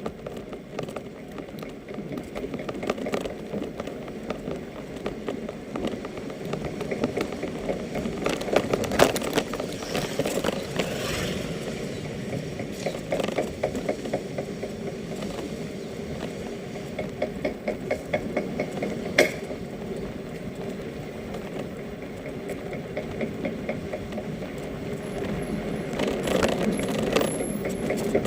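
Newly assembled electric bicycle running with a continuous rapid rattling clatter and occasional sharper knocks, a noise the owner fears means it is about to break.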